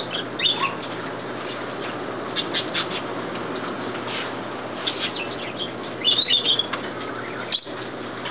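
Birds chirping in short, high bursts over a steady background noise, busiest about six seconds in.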